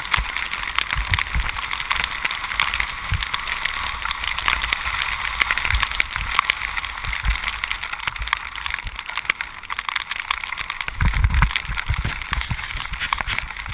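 Steady hiss of rain and tyres on a wet road during a ride, with fine crackling of drops and low wind thumps on the microphone, heaviest about eleven seconds in.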